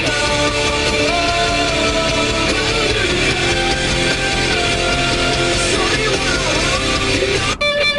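A rock song with electric guitar and a sung vocal playing loudly over a car stereo, heard inside the car's cabin; the song cuts off abruptly near the end.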